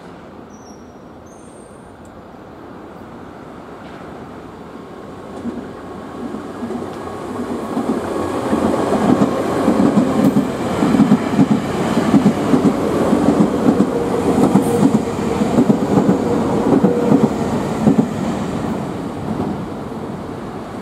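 Nankai electric trains, led by a 7100 series and 10000 series limited express, running through the station without stopping, with wheels clattering on the rails. The sound swells over the first several seconds, is loudest from about eight to eighteen seconds with rapid clatter and a steady running tone, then eases off.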